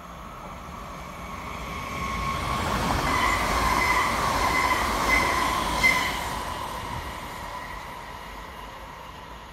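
Mälartåg ER1 double-deck electric train passing at speed: the rumble and rush of wheels on rail grows, is loudest mid-way with a steady whine and two sharp clacks, then fades as it goes away.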